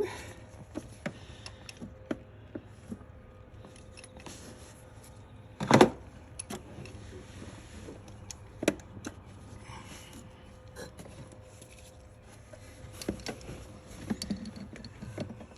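Metal hand tools clinking: socket extensions and a socket being handled and fitted together, with scattered light clicks and one louder clank about six seconds in.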